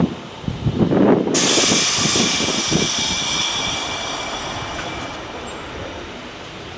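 Sangi Railway Hokusei Line narrow-gauge train: low rumbling knocks, then about a second in a sudden high-pitched ringing squeal from the running gear sets in and slowly fades away.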